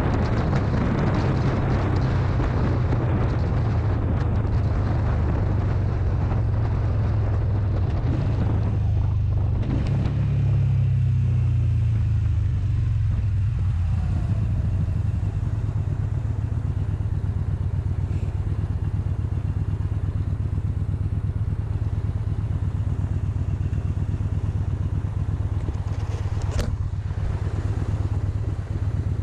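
Motorcycle engine running steadily under way, with a noisy rush over it that eases about nine seconds in. A single sharp click near the end.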